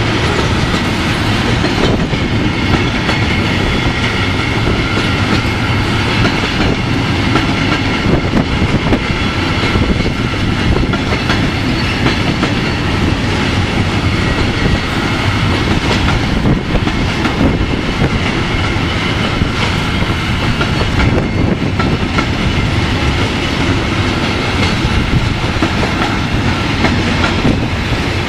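A train running past steadily and loudly, its wheels and cars rattling on the track without a break.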